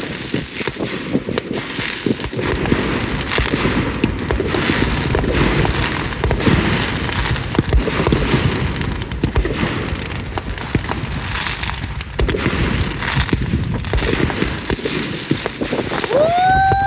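Fireworks display: a dense, unbroken barrage of crackling pops and sharp bangs. Near the end a brief high-pitched rising tone cuts in.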